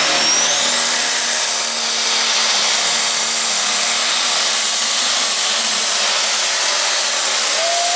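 Light pro stock pulling tractor's engine running flat out under load: a loud, steady, rasping noise with a high whine that climbs in pitch over the first two seconds.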